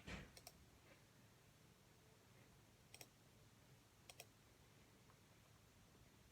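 Near silence with a soft knock right at the start, then a few faint sharp clicks, some in quick pairs, over quiet room tone.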